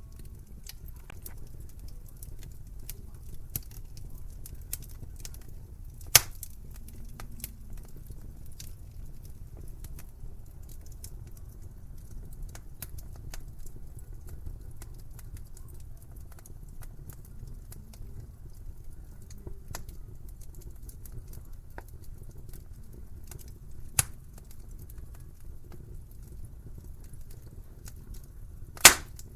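Wood fire crackling in a fireplace: a steady low rumble of flames with frequent small crackles and three loud sharp pops, about six seconds in, about 24 seconds in and near the end.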